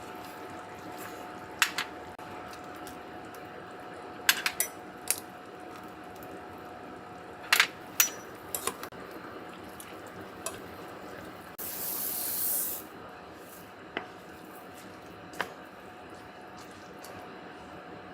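Kitchen work: scattered sharp clinks and knocks of utensils or dishes over a steady faint hiss, and about twelve seconds in a brief burst of spraying water that lasts just over a second and stops suddenly.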